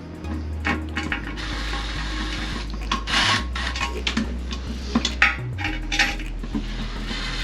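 Drill running, tightening the nuts and washers onto a toilet's tank-to-bowl bolts, its hum changing pitch a few times, with sharp metal clinks and knocks.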